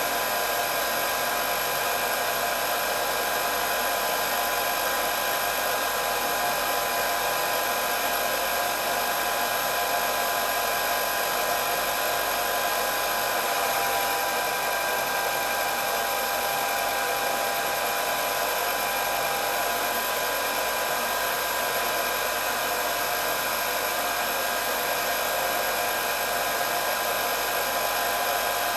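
Electric hair dryer running steadily: a constant whirring blow of air, its motor giving several steady high tones over the rush of air.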